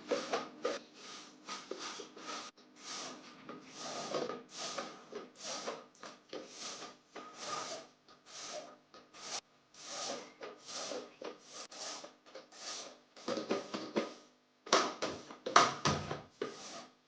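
A run of short rubbing strokes, about one or two a second, with a louder, busier stretch near the end.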